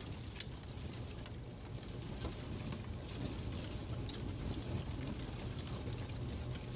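Fireplace ambience: a fire burning with a steady low rumble and scattered soft crackles, a few sharper pops among them.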